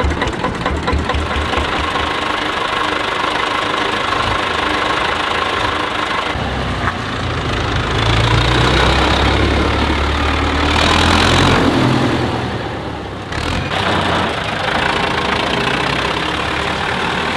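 Tractor engines running as tractors arrive, with a rhythmic low chug at first. About halfway through, a louder and heavier engine swells and then fades.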